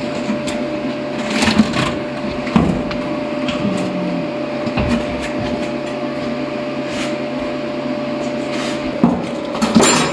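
Workshop handling noise: a few knocks and clatters, about a second and a half in, again a second later, and a cluster near the end, over a steady background hum.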